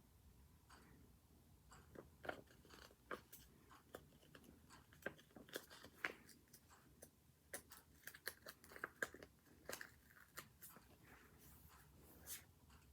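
Faint, irregular crackles and light taps of paper being handled close to the microphone, as in working with sticker sheets and notebook pages.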